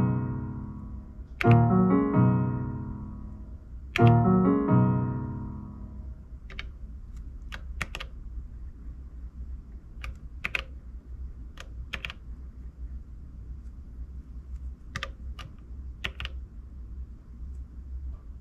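An Elektron Digitakt playing a short piano-like phrase, starting three times in the first six seconds, each phrase fading out. After that, button clicks from its controls being pressed every second or two, over a steady low hum.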